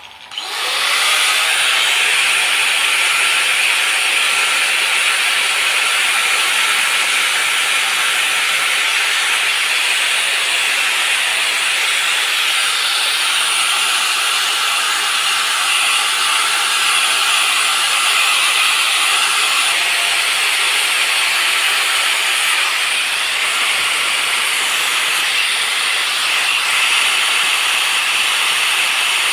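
A power tool switched on at the start and running steadily, with a continuous abrasive grinding hiss.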